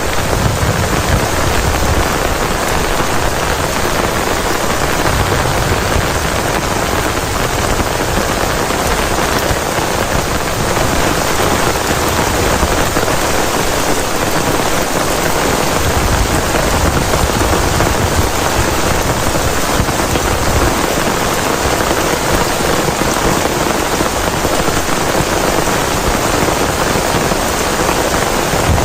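Heavy rain falling steadily as a dense, even hiss, with a low rumble that swells a little every few seconds.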